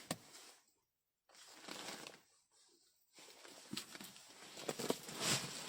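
Rustling, scraping and light knocks of cardboard delivery boxes and their wrapping being handled, broken twice by short gaps of dead silence and growing louder near the end.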